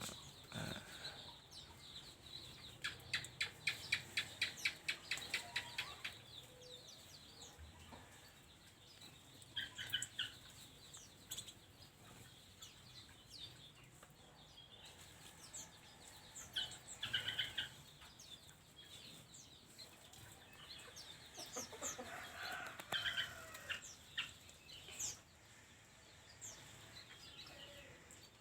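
Aviary birds chirping and calling at intervals, with a fast run of repeated calls about three seconds in that lasts a few seconds.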